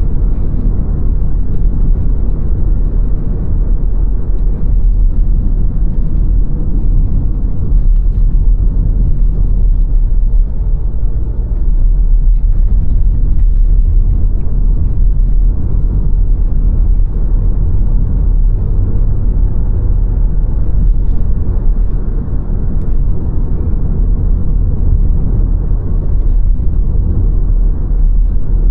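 A car driving along a road: a steady, loud low rumble of tyre and engine noise with no let-up.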